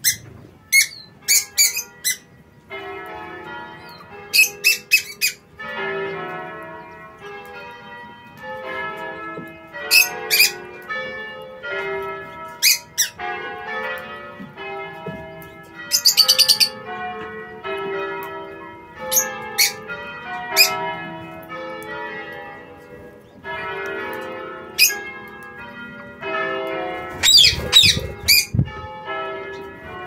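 Sharp, high bird chirps and squawks in short clusters, repeated several times, over chime-like background music with bell tones that starts about three seconds in.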